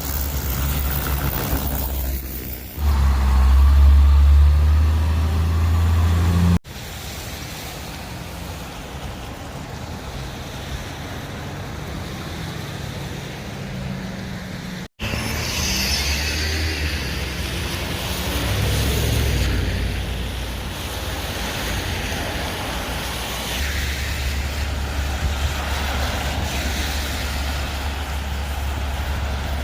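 Road vehicles running and passing, a steady low engine rumble with a louder close stretch a few seconds in. The sound breaks off suddenly twice, about six and a half and fifteen seconds in.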